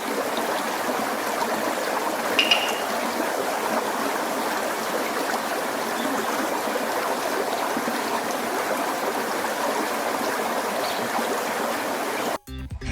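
Steady rush of flowing water, fading in at the start and cutting off near the end, with a brief high tone about two and a half seconds in.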